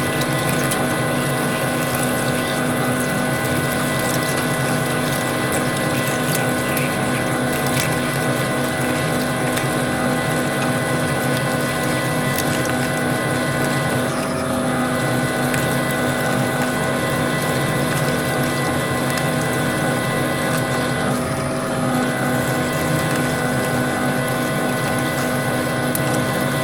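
Metal lathe running steadily, its motor and gear train giving a constant whine made of several steady tones over a mechanical hiss, as it turns a steel bar.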